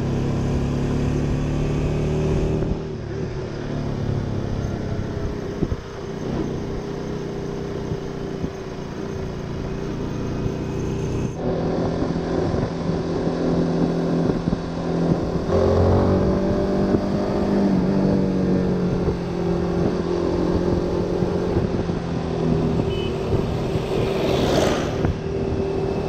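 Honda Winner 150 motorcycle's single-cylinder engine running under way, its pitch rising and falling with the throttle. A short, louder whoosh sweeps past near the end.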